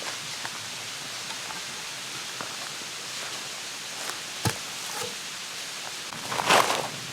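Steady hiss of outdoor background noise, with a single knock about four and a half seconds in and a brief rustle near the end.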